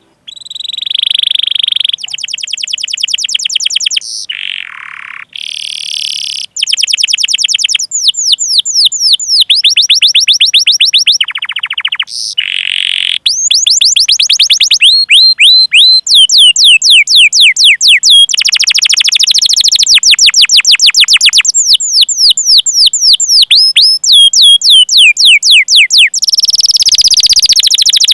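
Domestic canary singing a loud rolling song: long runs of fast, repeated downward-sweeping chirps, delivered in phrases of a few seconds each with short breaks between.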